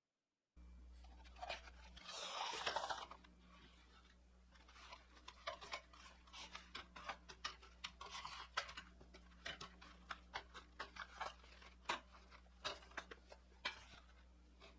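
Small handling noises: a brief rustle about two seconds in, then a long run of irregular light clicks and taps over a low steady hum.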